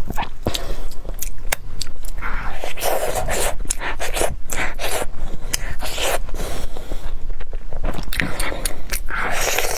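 Close-miked chewing and biting of a sticky glutinous purple rice and jujube cake, with many sharp mouth clicks, and soft tearing as the cake is pulled apart by hand.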